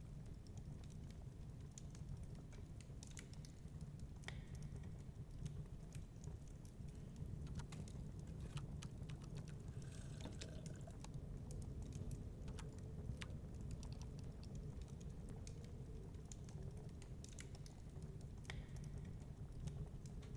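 Fireplace fire crackling, with irregular small pops and snaps, over a steady low rumble of storm wind. A faint wind howl rises in the middle.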